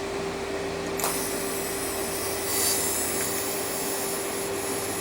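Welding on a stainless steel canister: a steady hiss over a constant hum, with a click about a second in and a brief louder hiss a little past the middle.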